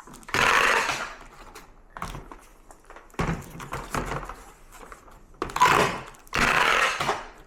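Packing tape pulled off its roll in three strips while a cardboard package is sealed, with light knocks of handling between them.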